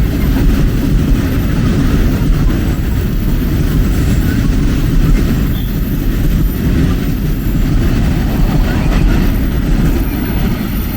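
A train rolling past close by: a steady, loud, low noise of wheels on the rails.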